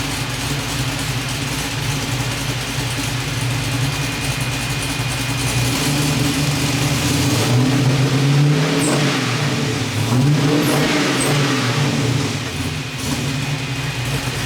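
Fuel-injected 5.3-litre LM7 V8 running through a freshly fitted Magnaflow 15896 exhaust, idling steadily, then revved up briefly about halfway through and again a couple of seconds later before settling back toward idle.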